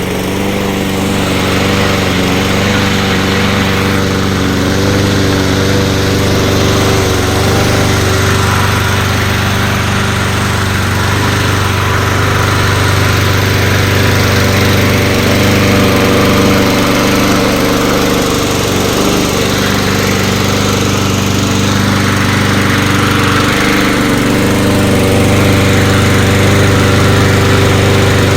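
2007 Troy-Bilt lawn mower engine running steadily at a constant speed after a cold start on choke.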